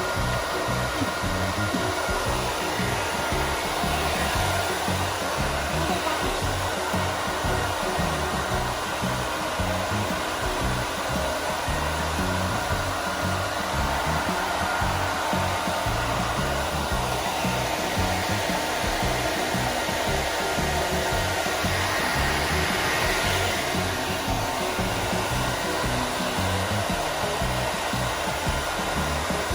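Hair dryer running steadily, blowing a dog's coat dry after a bath.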